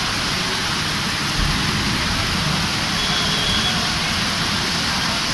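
Steady hiss of heavy rain and rushing water.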